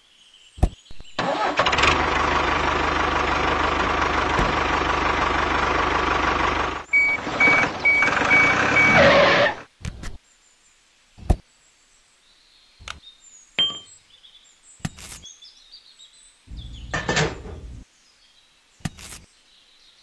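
Tractor engine sound running steadily for about eight seconds, then cutting off suddenly. After it come scattered light clicks and knocks.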